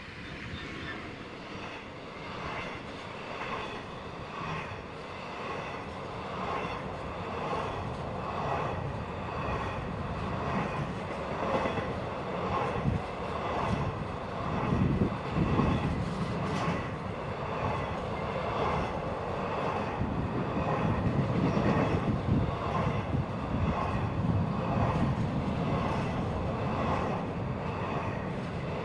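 Intermodal freight train's container wagons passing close by, the wheels clattering in an even repeating rhythm with a high steady ringing above it, growing louder over the first twenty seconds or so and then holding.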